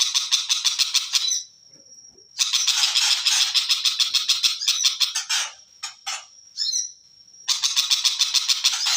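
Long-tailed shrike (cendet) singing in harsh, rapid chattering bursts, each a second to three seconds long, with a few short single calls between them about two-thirds of the way in.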